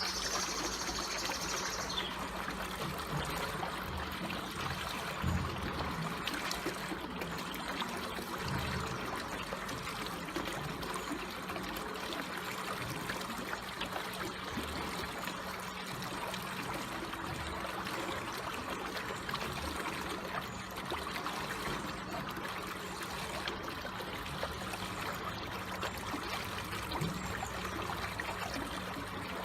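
Slowly flowing water trickling steadily, with a faint low hum underneath and a brief high thin sound in the first two seconds.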